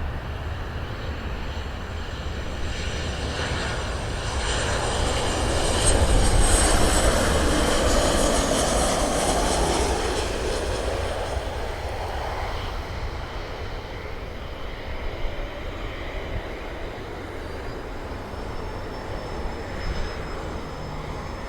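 Southwest Boeing 737 jet on its landing approach, its engines growing louder to a peak about six to eight seconds in, then slowly fading as it passes.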